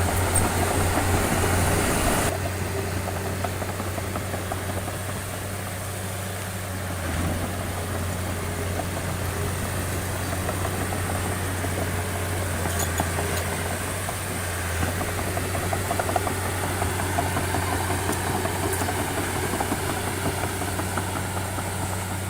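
Engine of a heavy construction machine running steadily with a low, even hum; the sound shifts and drops slightly in level about two seconds in.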